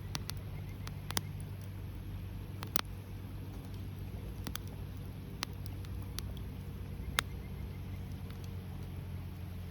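Wood bonfire crackling, with sharp, irregular pops about once a second over a steady low rumble.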